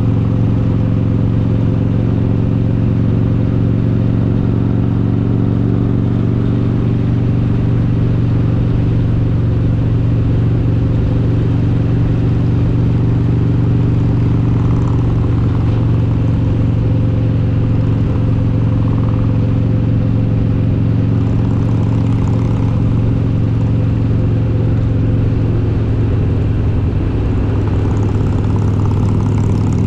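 Harley-Davidson Road King's S&S 95-cubic-inch V-twin engine running at a steady cruise, its even, low exhaust note holding at one pitch.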